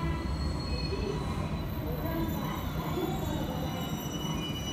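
JR Kyushu electric commuter train rolling slowly into the platform, its wheels squealing in several thin, steady high tones over a low rumble.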